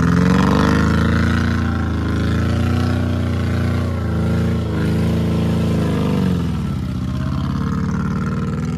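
Engine of an old sedan driving through mud, revving up and down, its pitch rising and falling several times and dropping back to a lower, steadier note near the end.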